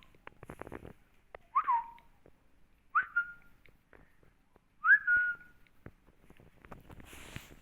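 Short whistled notes about a second and a half apart, each a quick drop in pitch that then holds briefly, with light tapping and scuffling between them.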